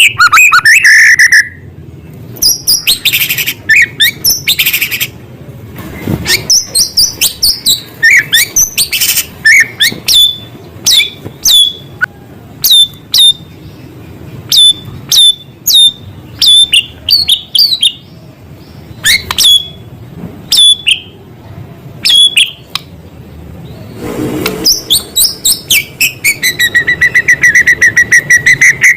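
White-rumped shama (murai batu) singing loudly, its song filled with mimicked small-bird calls: quick series of sharp whistled notes that drop in pitch. Near the end comes a fast, even trill.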